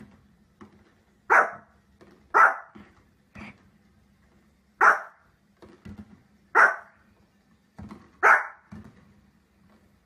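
Small Pomeranian-type dog barking: five loud, sharp, high barks at uneven intervals, with fainter short sounds between them.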